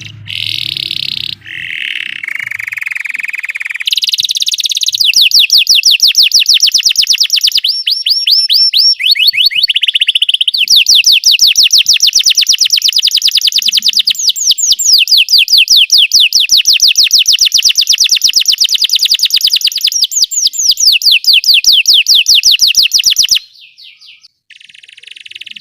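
Belgian canary singing a long song of fast trills, moving through several runs of rapidly repeated notes at different speeds and pitches. The song stops suddenly near the end.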